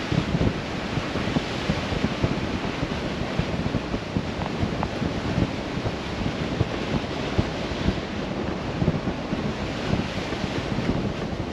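Road noise of a pickup truck rolling slowly over a wet gravel and mud road: a steady rushing noise with many small irregular low knocks and rumbles from the tyres and suspension.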